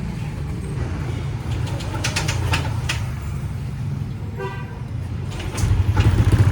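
Yamaha Aerox scooter's single-cylinder engine, bored out to 196cc, starting about five and a half seconds in and settling into a loud, evenly pulsing idle on fresh oil. Before that there is a low rumble, a few clicks and a short beep.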